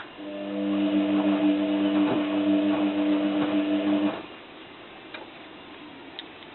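Zanussi FLA1002W washing machine's drum motor turning the drum with a steady hum for about four seconds, rising in at the start and cutting off sharply. These are its wash or anti-sudsing tumbles with a duvet in the drum. Faint clicks and water movement follow in the pause.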